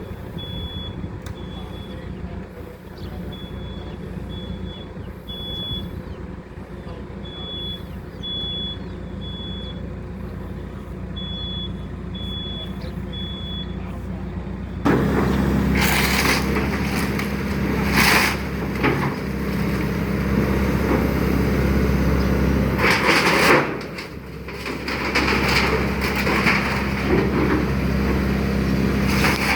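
Excavator's diesel engine running steadily with a short high beep repeating in groups of two or three. About halfway it gets suddenly louder, working under load, with several loud crunching crashes of material breaking during demolition.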